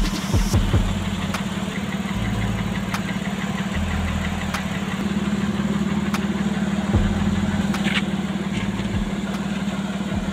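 Car engine idling under the open hood with the electric radiator cooling fan running, making a steady hum over an even mechanical noise with a few faint clicks.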